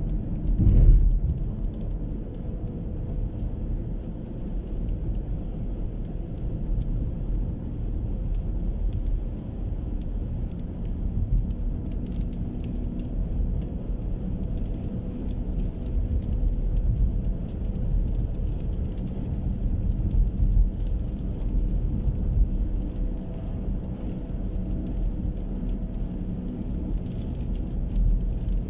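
Steady low rumble of a vehicle on the move, with faint scattered ticks over it and a brief louder swell about a second in.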